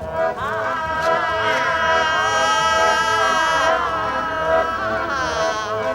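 Music: several voices singing together in gliding, overlapping lines over a steady held note.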